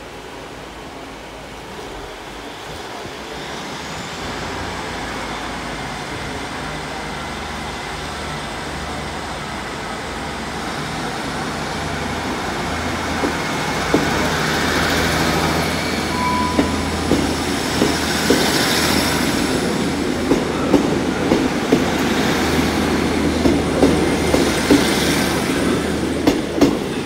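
A diesel train running into the station, its engine drone growing louder, then its wheels clicking rhythmically over rail joints and points in the second half, with steady rain hissing throughout.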